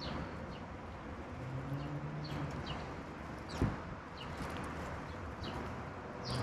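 Wild songbirds calling outdoors with short, downward-sweeping chirps scattered throughout. A single sharp knock comes about three and a half seconds in.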